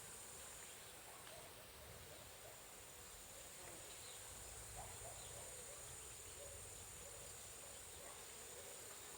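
Faint, steady, high-pitched chorus of insects trilling, with a few soft short calls lower down.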